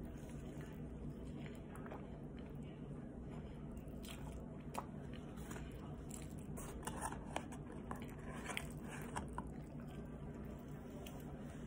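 A person chewing crunchy food close to the microphone: small crunches and wet mouth clicks, coming more often and louder in the middle of the stretch.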